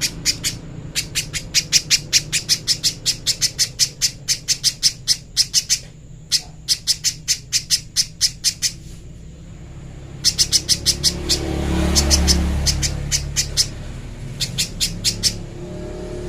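Spiderhunter calling: runs of short, sharp notes at about five a second, breaking off for a few seconds in the middle and then resuming in shorter bursts. A low rumble swells around twelve seconds in.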